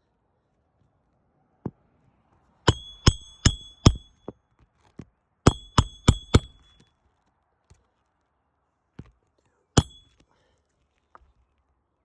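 Roofing nails being driven by hand with a roofing hatchet: two runs of four quick, ringing metal strikes, then a single strike near the end.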